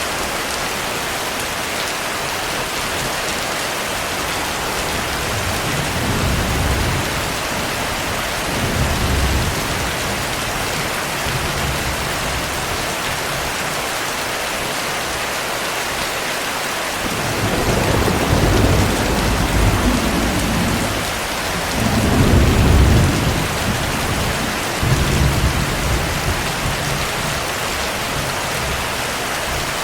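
Steady heavy rain with thunder rumbling several times, low and rolling. The thunder is faint in the first half and loudest about two-thirds of the way through.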